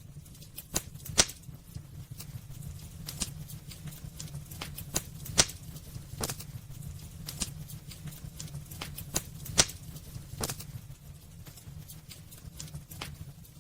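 Wood fire burning in a fireplace: irregular crackles and snaps over a steady low rumble, with a few sharper pops about a second in, midway and near ten seconds.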